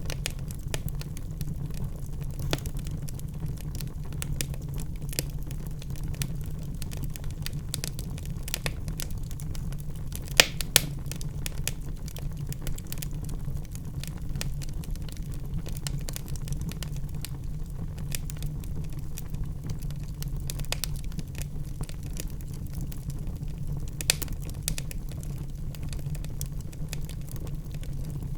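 Wood logs burning in a fireplace: a steady low rumble of flames with constant small crackles, and a couple of sharper, louder pops about ten seconds in and another one later on.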